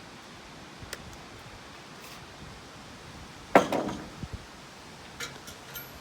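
A single sharp metallic clank about three and a half seconds in, ringing briefly, followed by a few light clinks near the end: metal tools or parts being handled.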